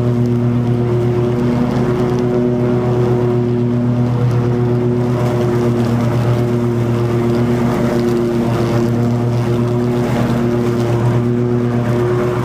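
Toro TimeCutter 50-inch zero-turn mower running steadily while mowing long grass: a constant, unbroken engine drone.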